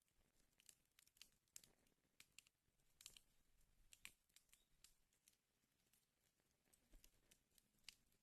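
Wood fire burning in a fireplace, faintly crackling with irregular sharp pops, a few louder snaps among them.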